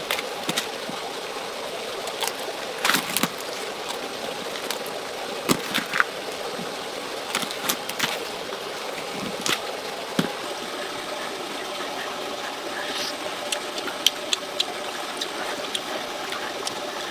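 Steady rush of running water, with irregular sharp clicks and knocks over it.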